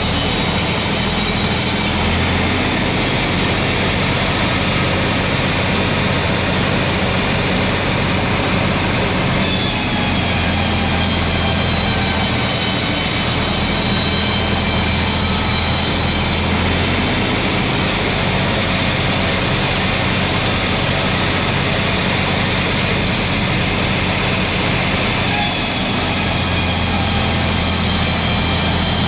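Sawmill machinery running steadily while sawing pine logs into slabs: a continuous motor hum with a higher saw whine that drops out twice for several seconds and comes back.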